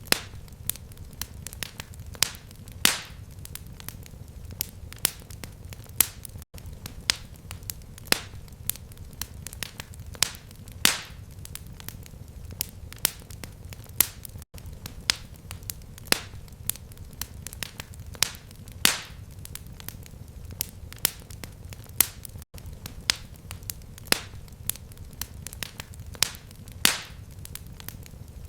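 Fireplace fire crackling: frequent sharp pops and snaps over a low steady rumble. It is a short loop that repeats about every eight seconds, with a brief dropout at each seam.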